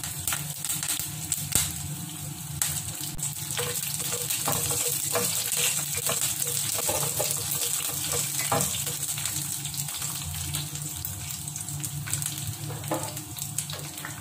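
Garlic cloves, tempering seeds and curry leaves sizzling in hot oil in a nonstick frying pan, a steady hiss dotted with small crackles.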